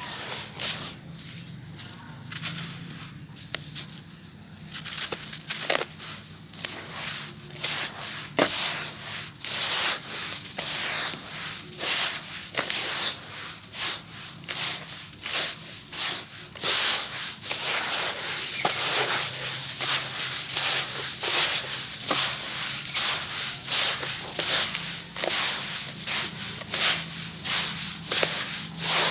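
Gritty black sand-cement material crumbling and being crushed: a run of irregular dry crunches and crackles that come faster and louder from about a third of the way in.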